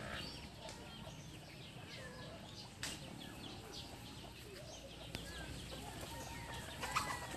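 Faint bird chirps and calls scattered over a quiet background, with one sharp click about three seconds in.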